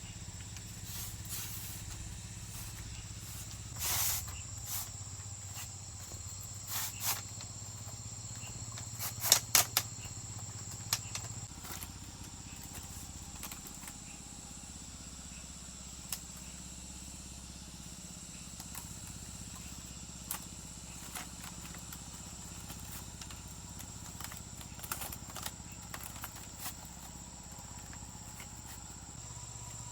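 Scattered sharp knocks and clicks, loudest in a quick cluster about nine to ten seconds in, over a steady high thin insect-like drone and a low hum.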